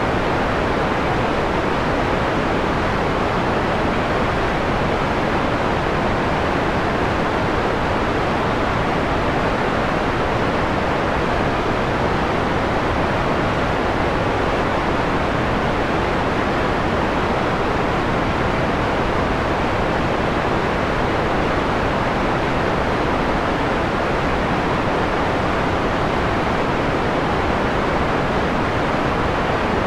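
Synthetic white noise with its top end filtered down to a mellow quality: a steady, even hiss, duller than plain white noise.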